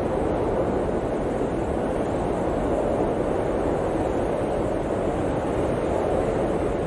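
Blizzard wind blowing as a steady, even rushing noise that neither rises nor falls.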